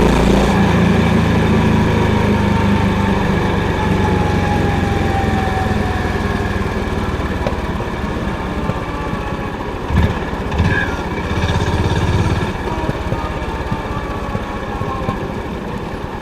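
Honda CB350's air-cooled single-cylinder engine thumping through its exhaust on the move, the revs easing slowly down in the first half. Two short low thuds come about ten seconds in.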